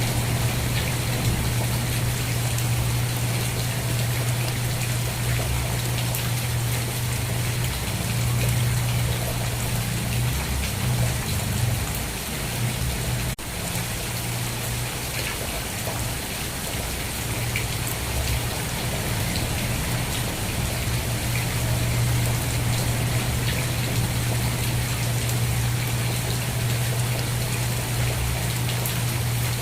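Steady rain falling, an even hiss of drops with a constant low rumble underneath; the sound dips briefly a little past the middle.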